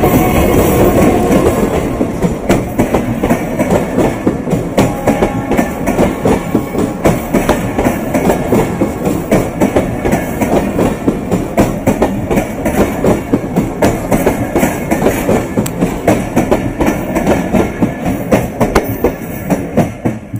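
Broad-gauge passenger train passing close at speed: the MLW RSD-34 diesel-electric locomotive loudest at first, then the coaches' wheels clattering rhythmically over the rail joints.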